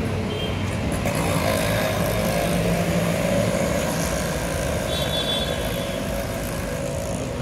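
Vehicle engine running at a steady idle, with street traffic noise.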